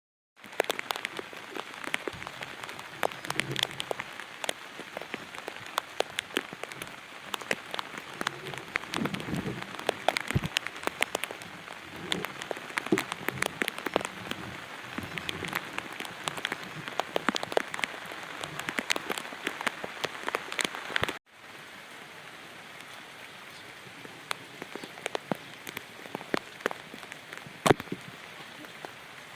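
Steady rain, with many close raindrops striking a surface as sharp separate ticks over the hiss. About two-thirds of the way through the sound breaks off for an instant and resumes a little softer.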